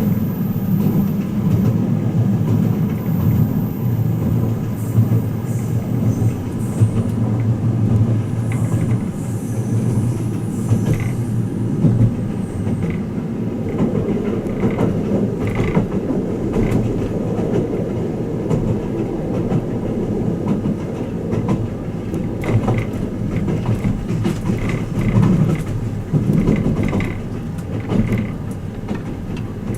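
Inside a moving train carriage of the Twilight Express Mizukaze, a steady low running rumble, with scattered clicks and creaks from the car.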